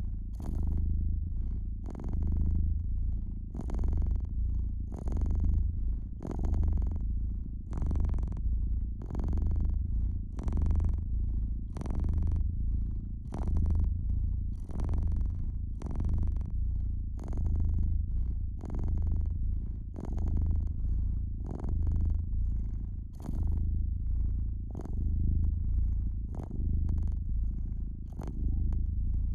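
Domestic cat purring in a steady low rumble that swells and eases about once a second with its breathing.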